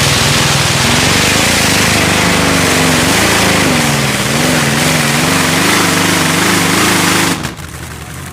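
Modified pulling tractor's 18-cylinder radial aircraft engine, a Lockheed Super Constellation's Wright R-3350, running hard with its pitch wavering up and down. The sound drops away suddenly about seven seconds in.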